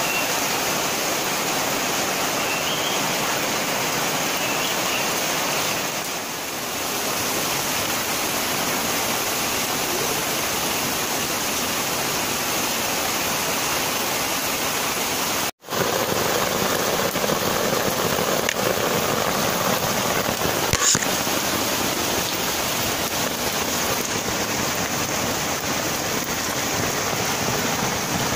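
Rain falling steadily, a dense even hiss. It breaks off for an instant about halfway through and then carries on.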